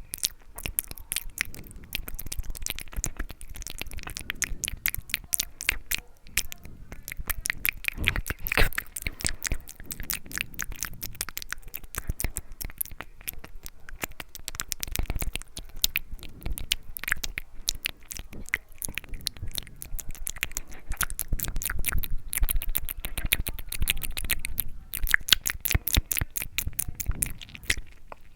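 ASMR mouth sounds close to the microphone: rapid wet clicks, smacks and tongue pops in dense runs, broken by short pauses.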